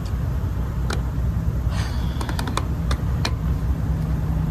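Steady low rumble of a vehicle on the move, with a handful of sharp, irregular clicks and taps between about one and three seconds in.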